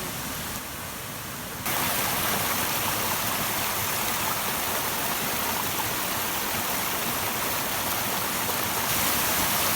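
Waterfall and stream water rushing, a steady noise that gets louder about two seconds in.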